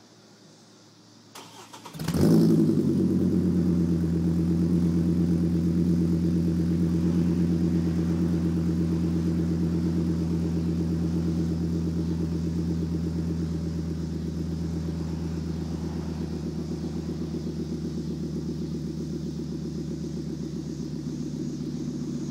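2008 Chevy Colorado 3.7-litre inline-five with a straight 2.5-inch side-exit exhaust through a Magnaflow resonator and a gutted, ported exhaust manifold, starting up: a brief crank, then it catches about two seconds in with a flare of revs and settles into a steady idle that slowly gets quieter.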